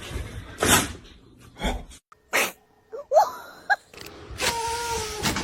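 A few short, sudden sneezes, then two brief rising squeaks and a held pitched sound near the end.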